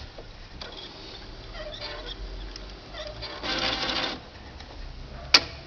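Epson CX3700 inkjet printer running its power-on initialization and cleaning cycle: the carriage and pump motors whir in short spurts, with a longer, louder spurt in the middle and a sharp click near the end. The cycle finishes without the carriage jamming.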